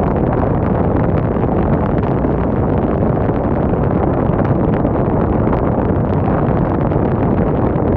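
Strong wind blowing, rumbling steadily on the microphone.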